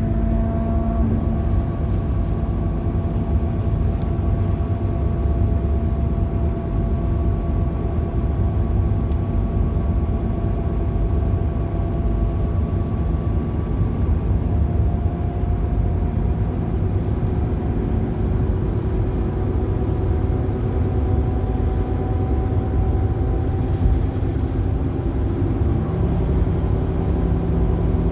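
Bus engine and road noise heard from inside the moving bus: a steady low rumble with a faint engine hum whose pitch drifts slowly.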